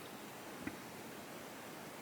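Faint steady hiss of room tone, with one small click about two-thirds of a second in.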